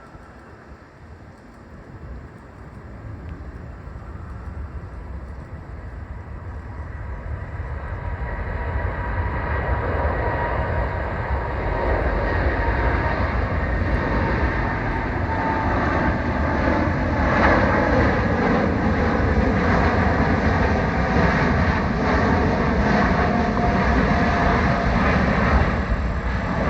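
Boeing 747-8 freighter's four GEnx-2B turbofan engines at takeoff power, growing louder over about ten seconds and then staying loud: a deep rumble with steady whining tones above it.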